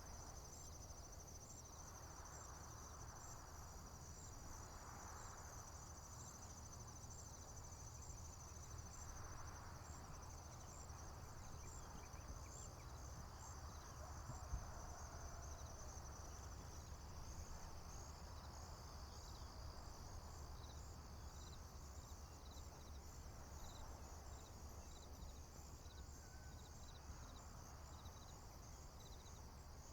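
Faint chorus of crickets and other insects: a high, continuous pulsing trill with regularly repeated short chirps over it. A low steady rumble runs beneath, and there is a single sharp click about halfway through.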